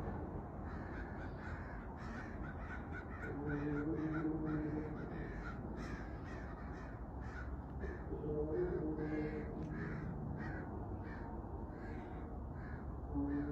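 Long, low, trumpet-like droning of the kind reported as 'strange sounds in the sky', swelling three times about five seconds apart, with a fast run of short cawing calls over it.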